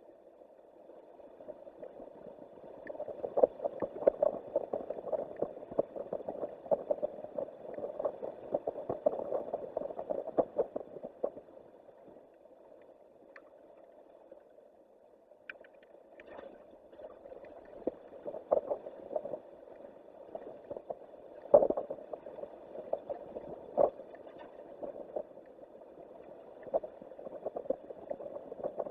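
Strong wind buffeting a microphone, coming in gusts that swell and fade, with frequent sharp crackles; it eases off for a few seconds about halfway through.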